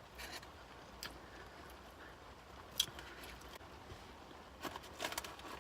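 Faint chewing with a few scattered wet mouth clicks and smacks while someone eats sauce-glazed chicken strips.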